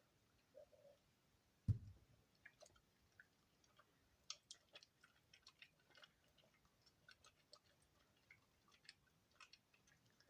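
Soap shavings crackling and clicking softly as they are pressed and worked together by hand, with one dull thump just under two seconds in.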